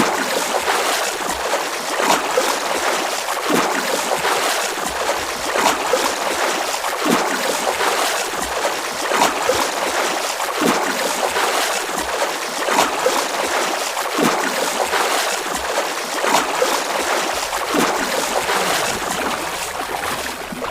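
Swimming-pool water splashing and sloshing as a person swims, with a stronger splash about every second and a half.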